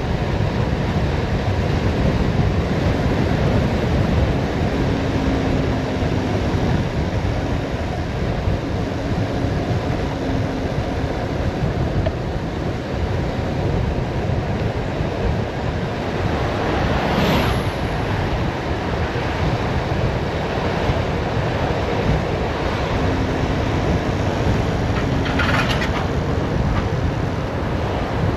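Wind rushing over the microphone during a fast downhill bicycle descent, a steady loud buffeting, with two brief louder hisses, one just past halfway and one near the end.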